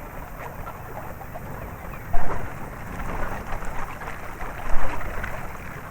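Wind rushing and buffeting the microphone on a small sailing boat, a steady crackly rush with a heavy low rumble, with two loud buffets about two seconds in and just before five seconds in.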